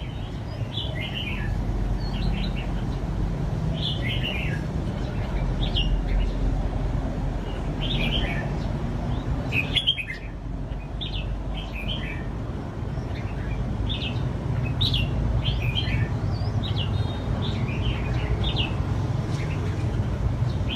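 Red-whiskered bulbuls singing short, chirpy warbling phrases every second or two, over a steady low rumble.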